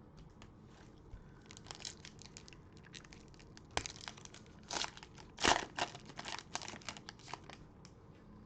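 Plastic cellophane wrapper of a trading-card cello pack crinkling and tearing as the pack is opened, a run of crackles that grows loudest past the middle.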